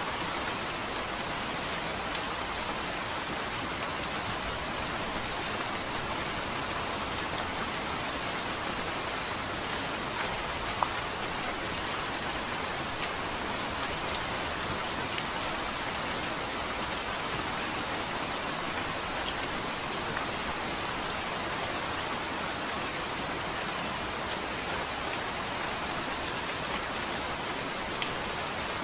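Steady rain falling on a surface, an even hiss with scattered individual drop hits, two of them a little louder, one about eleven seconds in and one near the end.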